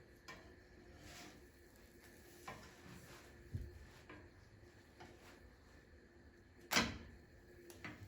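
A few scattered light clicks and knocks of things being handled, with one sharper knock about two-thirds of the way through.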